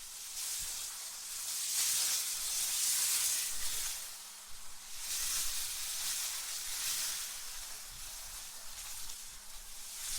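Synthetic wind, an airy high-pitched hiss with little low rumble, swelling and easing in slow gusts every few seconds.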